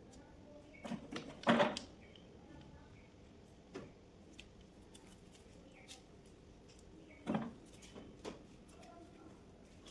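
Scattered knocks and clatters of hand tools and parts being handled, about seven in all, loudest about a second and a half in.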